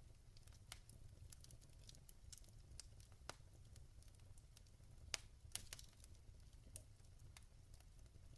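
Burning logs crackling faintly: irregular sharp pops and ticks over a steady low rumble, with the two loudest pops a little past halfway.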